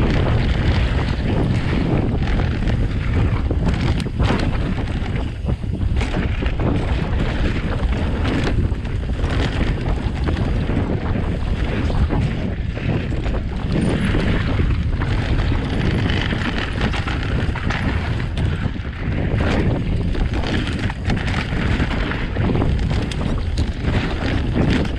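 Wind buffeting the microphone of a camera riding on an e-bike going downhill on a trail, a steady loud rumble broken by many short knocks and rattles from bumps in the ground.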